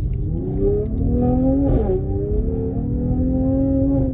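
Mercedes-AMG GT53's turbocharged inline-six accelerating hard through the gears. Its pitch climbs, drops sharply on an upshift about two seconds in, then climbs again.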